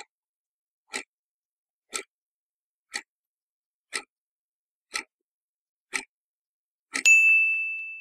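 Countdown timer sound effect: a clock ticking about once a second, then a single bright bell ding near the end that rings out and fades.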